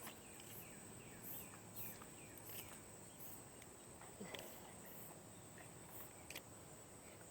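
Faint insect chirring: a steady high-pitched trill with evenly pulsed chirps above it. A few faint short falling chirps sound in the first few seconds.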